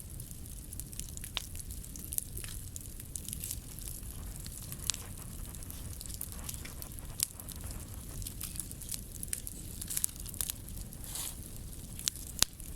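Scrap-wood bonfire crackling: irregular sharp pops and snaps over a steady hiss and a low rumble from the flames.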